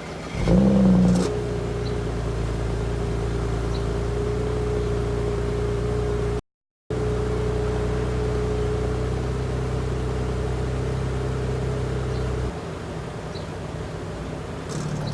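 BMW 335i's N54 twin-turbo straight-six through a muffler-deleted exhaust: a short rise in revs about half a second in, then a steady low exhaust drone while cruising at highway speed. The drone cuts out briefly in the middle and falls away near the end.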